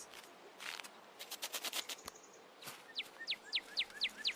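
Small bird calling: a series of six quick whistled notes, each falling sharply in pitch, a little over three a second, in the last second and a half. Before it, a brief run of rapid faint clicks.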